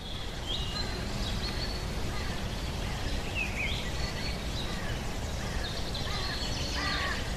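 Small birds chirping and calling on and off over a steady low outdoor rumble, with a few lower calls coming in near the end.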